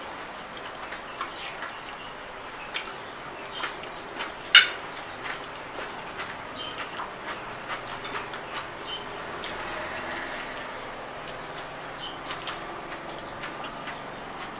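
Eating sounds: chewing and mouth smacks over spaghetti and fried chicken, with many small clicks and one sharp clink about four and a half seconds in.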